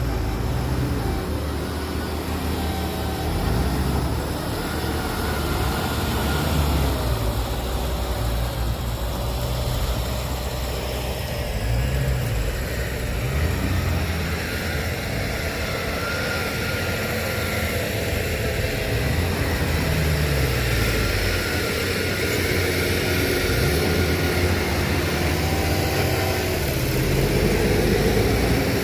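Heavy machinery's diesel engine running throughout, its pitch rising and falling again and again as it revs up and eases off.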